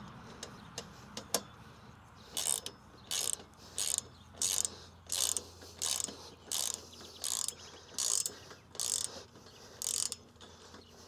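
Socket ratchet wrench tightening a bolt on a metal mount: a few light clicks, then from about two seconds in a steady run of a dozen or so ratcheting strokes, about one every two-thirds of a second.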